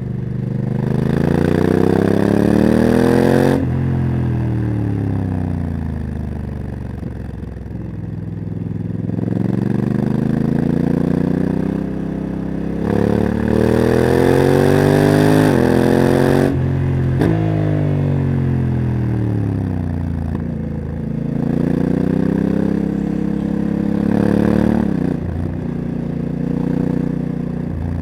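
Honda CRF1100 Africa Twin's parallel-twin engine, fitted with a Leo Vince exhaust, accelerating hard and rising in pitch. The automatic DCT gearbox upshifts, cutting the pitch suddenly about three and a half seconds in, again past the middle, and once more near the end. Between the pulls the engine note falls away as the bike slows.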